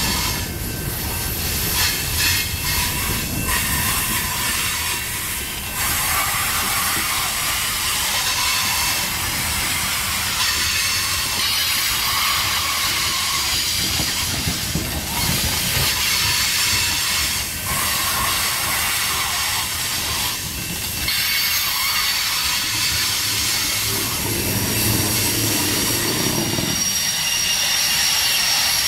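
Covered hopper cars of a long freight train rolling past close by: a steady, loud rushing noise of steel wheels on rail, with a hiss.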